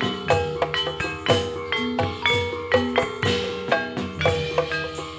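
Javanese gamelan music for a gedruk dance: bronze metallophones ringing out struck notes over kendang hand-drum strokes, in a quick steady beat.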